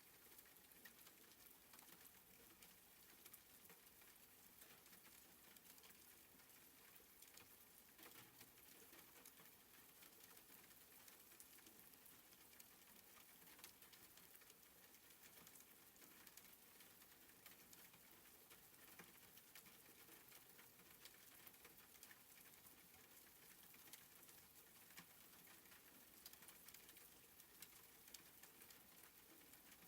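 Soft, faint rain: a steady hiss of light rainfall with many small drops pattering.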